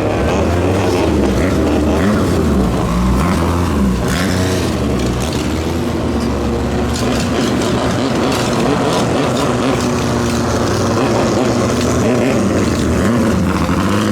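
A racing boat's engine running loudly, its pitch wavering up and down.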